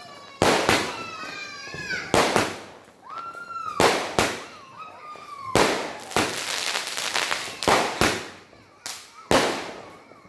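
A 30-shot multicolour aerial fireworks cake firing: sharp bangs every second or two, with a spell of crackling about two-thirds of the way through.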